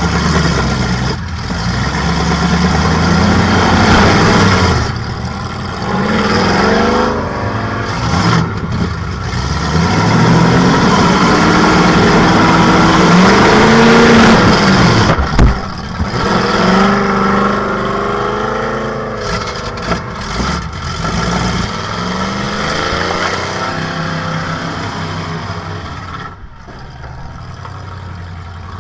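Demolition derby Metric Caddy's engine heard from inside the car, revving up and falling back again and again as the car is driven. There is one sharp bang about halfway through.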